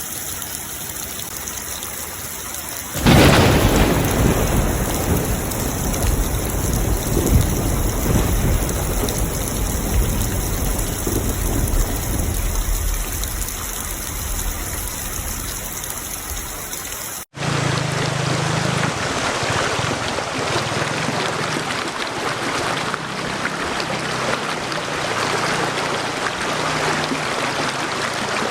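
Steady heavy rain with a thunderclap about three seconds in that breaks loudly and rumbles on for many seconds, slowly dying away. About two-thirds of the way through, the sound cuts abruptly to another stretch of steady rain.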